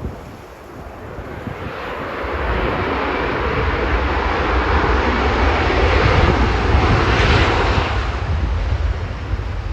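An airliner's engines passing close by, a rushing noise that swells over several seconds, peaks about two-thirds of the way through and then begins to fade, with strong wind buffeting the microphone underneath.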